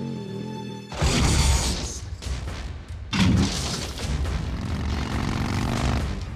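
Action-film soundtrack: orchestral music breaks off about a second in for a sudden loud crash, then a second heavy impact about three seconds in, followed by a continuous rumbling din of vehicle and wreckage noise.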